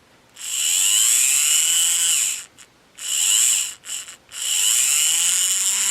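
Small open-frame electric motor and gear train of an HO-scale Roundhouse Boxcab locomotive running on test, whining in four bursts whose pitch rises as each starts and falls as it stops. The gears turn without binding after reassembly.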